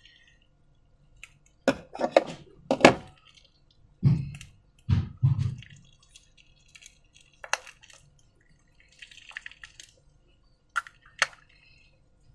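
Sticky slime squelching and popping as it is handled. Sharp wet clicks come in a cluster about two seconds in, deeper squishes follow a few seconds later, and a few single clicks come near the end.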